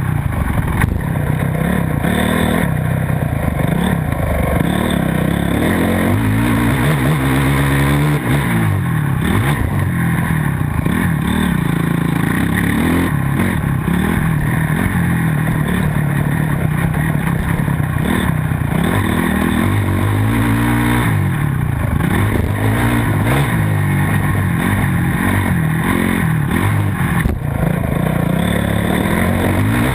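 Motocross dirt bike engine running hard and continuously, its pitch rising and falling again and again as the rider revs up and shifts.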